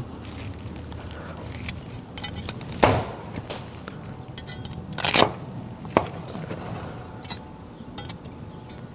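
Meat cleaver chopping through a rack of cooked pork baby back ribs, a handful of sharp chops with small knocks between them, the loudest about five seconds in.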